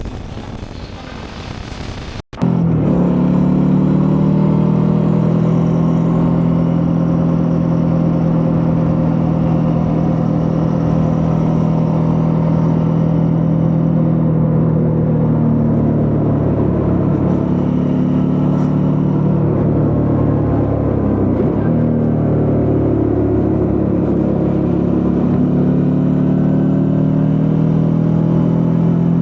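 Suzuki V-Strom 650's V-twin engine running steadily under way, its pitch drifting slowly with throttle, with a brief dip and rise in pitch about two-thirds of the way through. It comes in after a couple of seconds of quieter, even noise and a short cut.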